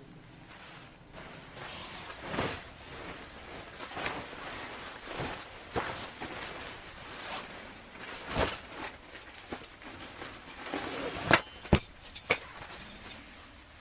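Irregular rustling and handling noise with scattered sharp clicks and knocks, the sharpest few near the end.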